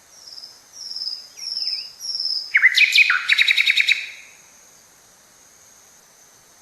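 Forest birds calling: four short, high, falling whistled notes, then about two and a half seconds in a loud, rapid chattering series lasting over a second. A thin steady high tone runs underneath.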